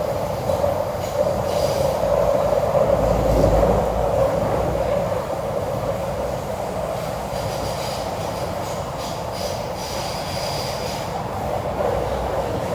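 MTR C-train metro train running along the track, heard from on board: a steady rumble of wheels on rail that swells about three seconds in, with a faint high wheel squeal coming and going in the second half.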